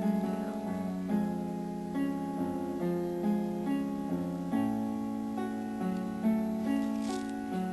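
Background music: plucked guitar-like notes in a steady melody, composed on a computer.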